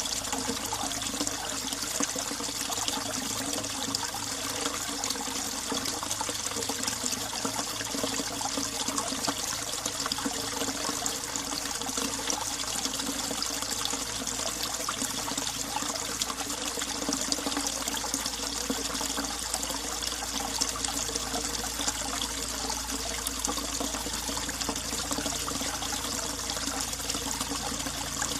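Winter mountain valley stream running steadily, an even rush and trickle of water with no pauses.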